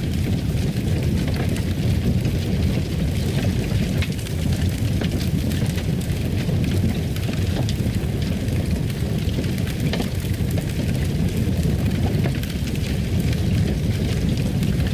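Fireplace fire burning: a steady low rumble with scattered sharp crackles and pops.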